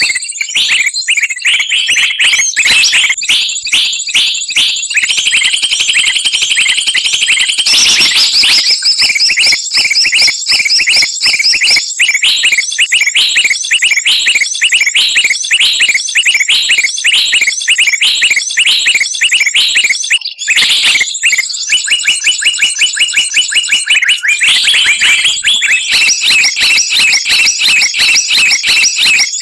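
A loud, dense chorus of many songbirds, with rapid repeated high chirps and trills from several birds at once: a mixed-species bird-lure recording made to draw wild birds down.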